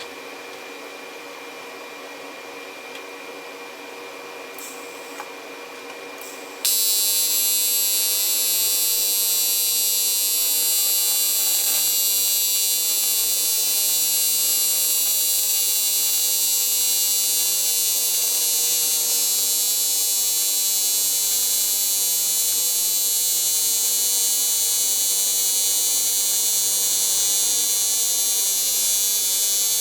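Aluminum welding arc: after a quieter stretch with a faint steady whine, the arc strikes suddenly about seven seconds in and buzzes loudly and steadily as the weld is run.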